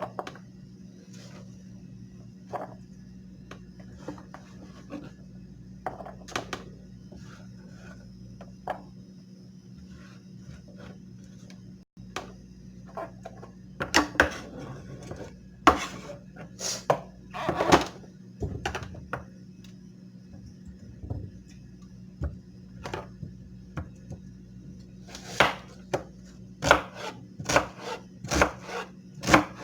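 Knife work: irregular sharp taps and short scrapes of a blade on a hard surface, sparse at first and coming thicker and louder from about halfway, over a steady low hum.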